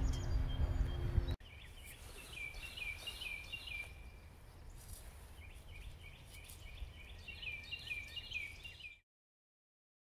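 A bird calling: two runs of short, quick down-slurred chirps, several a second, with a pause between, over a faint hiss. It stops abruptly about a second before the end.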